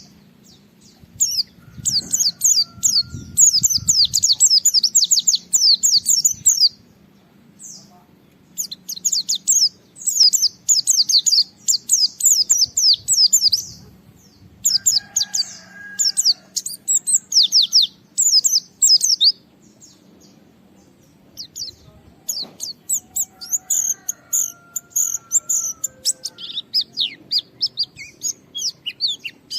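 White-eye (pleci) singing in bouts of rapid, high, chattering chirps several seconds long, with short pauses between, in a steady run of full song.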